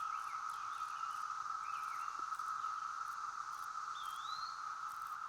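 Chorus of 17-year periodical cicadas: a steady, unbroken droning din. Short bird chirps sound over it, with a single whistled bird call about four seconds in.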